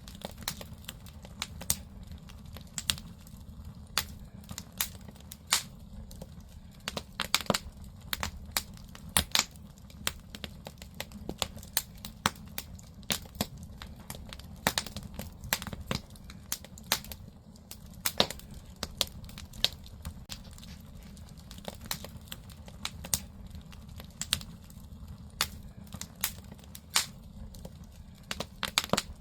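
Firewood burning in a traditional Korean agungi firebox: irregular crackling with frequent sharp pops, over a steady low rumble.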